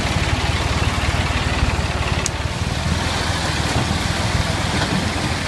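Tractor engine running steadily with an even, pulsing low note. There is a single sharp click about two seconds in.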